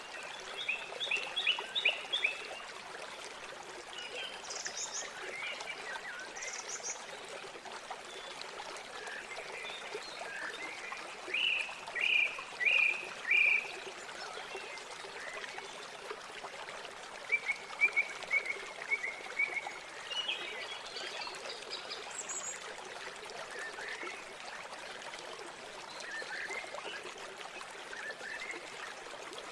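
Steady rush of river water with birds calling over it: a quick run of chirps near the start, four loud notes a little before halfway, and a rapid series of repeated notes soon after.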